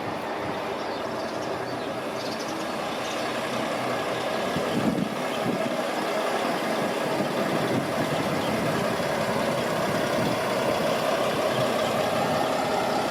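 Street traffic with a heavy vehicle's engine running close by, growing slowly louder, with a brief louder thump about five seconds in.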